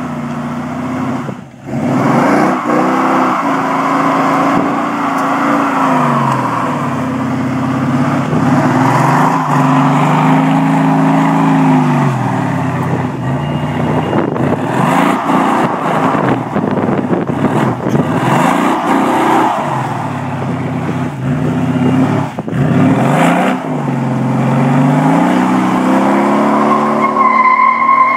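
Mercedes-Benz CLS 500 W218's biturbo V8, chiptuned and fitted with an MEC exhaust, revving up and falling back again and again during a burnout, with the tyres squealing.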